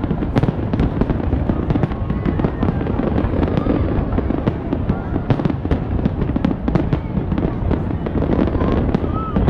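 Aerial fireworks shells bursting in rapid succession, a dense run of bangs and crackles with no pause over a continuous low rumble.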